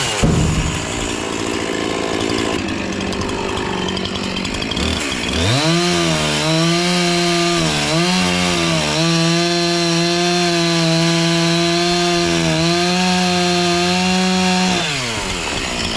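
Chainsaw running at high revs, its pitch dipping and recovering as it cuts into wood, then holding steady before the throttle is let off and the engine note falls away near the end.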